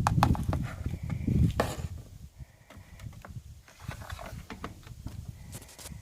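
Privileg Sensation 9245 washing machine running: a low rumble with irregular knocks and clicks, loud at first and dying down about two seconds in, then cutting off suddenly at the end.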